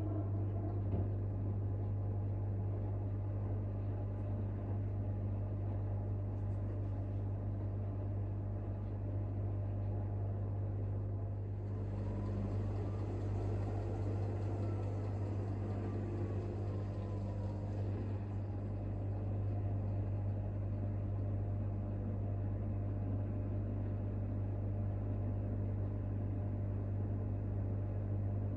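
Hoover H-WASH 500 front-loading washing machine running mid-cycle on a Cotton 60 programme: a steady low hum over a constant mechanical noise. About halfway through, a faint whine rises and falls again.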